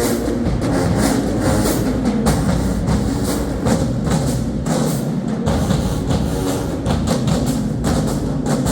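Marching band playing in a gym, with drums beating a steady rhythm under the band's sustained lower parts.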